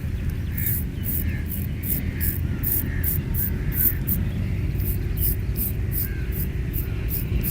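Razor shaving chest hair: quick, crisp scraping strokes, about three a second, with a short pause about four seconds in, over a steady low hum.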